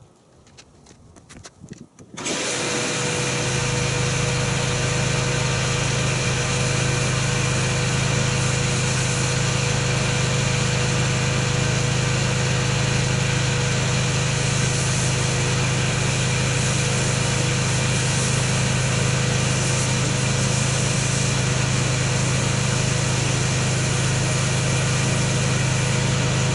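A motor-driven machine starts about two seconds in and runs steadily, a low hum under a loud hiss, after a few faint knocks.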